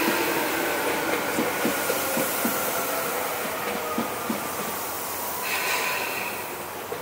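Electric commuter train running along the track, its wheels clicking irregularly over rail joints under a steady mechanical hum that drops slightly in pitch. It grows quieter as it moves away. A brief high-pitched sound comes about five and a half seconds in.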